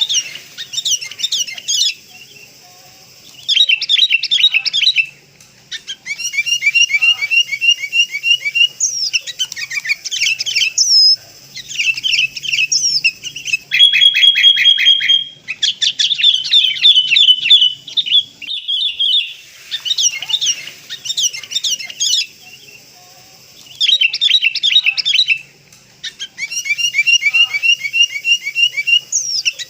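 Sooty-headed bulbul calling in bursts of rapid chirps and bubbly trilled phrases, a few seconds each with short pauses between them. The same phrases come round again, as in a looped lure recording used to draw wild bulbuls in.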